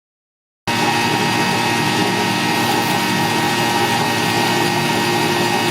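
A small motor running steadily, a mix of steady tones and hiss. It starts abruptly under a second in.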